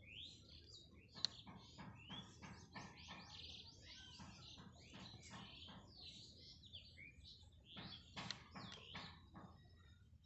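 Faint chorus of small birds chirping, many quick rising and falling calls overlapping, with a single sharp click about a second in.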